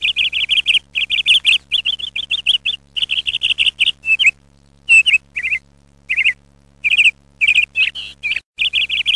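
A bird chirping in quick bursts of rapid, high trilled notes, with short pauses between the bursts, over a faint steady low hum.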